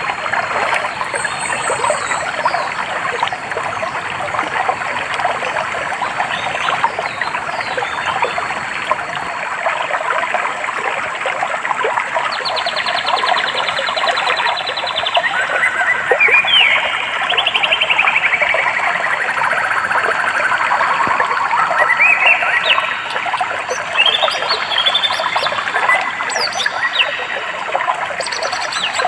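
A stream trickling and babbling steadily, with birds singing over it: a fast trill about twelve seconds in, then gliding calls and many short chirps and whistles through the second half.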